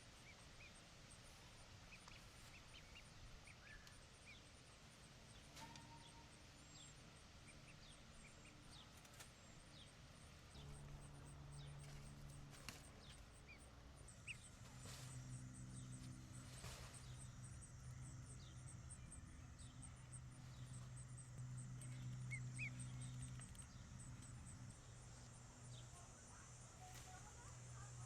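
Quiet outdoor rural ambience: scattered faint bird chirps over a fast, faint high ticking, with a low steady hum coming in about ten seconds in.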